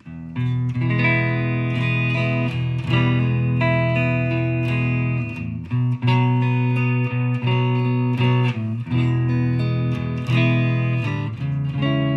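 Fender Stratocaster played through a Fender Mustang GTX100 amp on its Bright Clean preset: clean, bright electric guitar chords strummed and left to ring, changing every few seconds.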